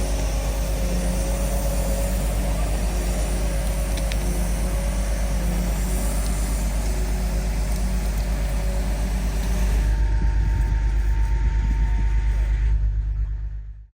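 Heavy machine engine running steadily with a regular low pulse. About ten seconds in it turns muffled, then fades out near the end.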